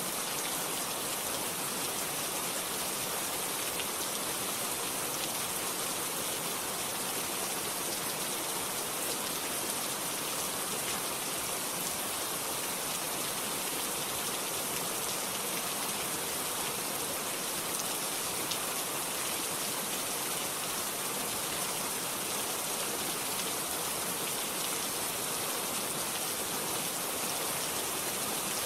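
Steady rain falling, an even hiss with fine pattering drops.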